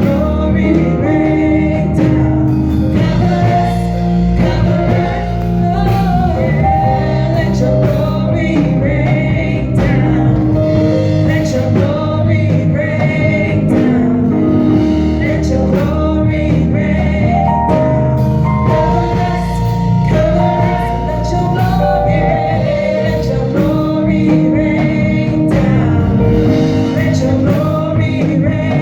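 Gospel music: singing over instrumental backing with a steady beat.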